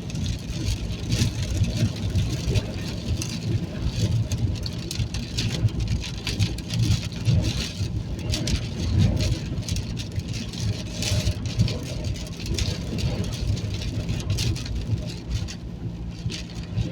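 Car driving through a storm, heard from inside the cabin: a steady engine and road rumble under irregular gusty noise of wind and rain buffeting the car, which the occupants take for a column of wind.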